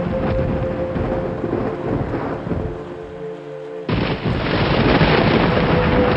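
Thunderstorm: rain and rumbling thunder under soft, sustained music notes. About four seconds in, a loud thunderclap breaks in and rolls on.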